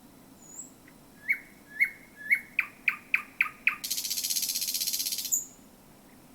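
Male thrush nightingale singing one song phrase: three rising whistled notes, a quick run of sharp falling notes, then a dry rattle about a second and a half long, ending on a thin high note.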